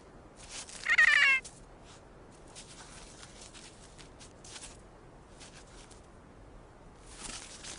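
A kea gives one short, loud, wavering cat-like call about a second in. Faint scratchy rustles follow at intervals.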